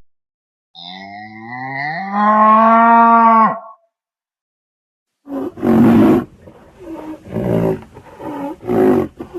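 An animal's calls: one long pitched call lasting about three seconds that rises and then holds, then, after a short pause, a run of short harsh calls about one or two a second.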